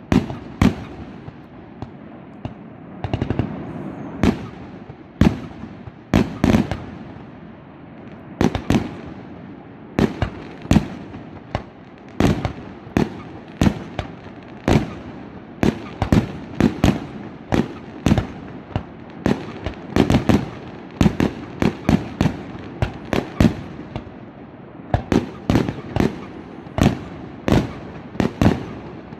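Fireworks going off: a fast, irregular series of sharp bangs, about one or two a second, each trailing off briefly.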